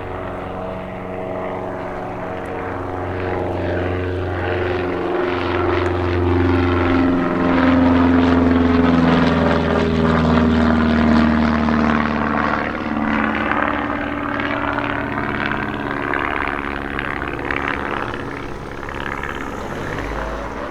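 Light propeller aircraft's engine passing close by, growing louder to a peak about halfway through and then easing off, its pitch dropping as it goes past.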